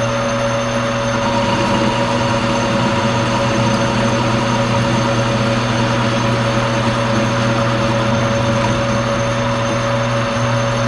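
Monarch engine lathe running steadily: a machine hum with a steady gear whine over it, and a higher tone joining about a second in.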